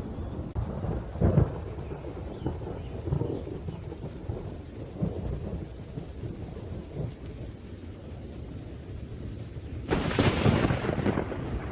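Thunderstorm: rolling thunder rumbles low and crackles over steady rain. There is a sharp crack about a second in, and near the end a louder, close thunderclap breaks out suddenly.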